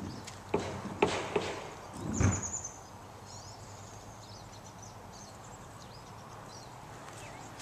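A few sharp knocks and a heavier thump in the first two and a half seconds, then faint, short, high bird chirps over quiet outdoor background.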